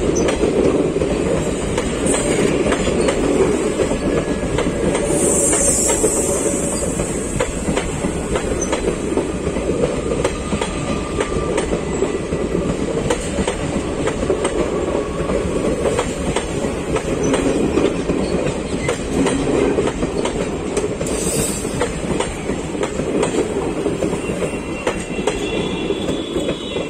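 Indian Railways passenger coaches rolling past close by, a steady rumble with the wheels clattering over rail joints and faint wheel squeal near the end. The noise falls away sharply as the last coach clears.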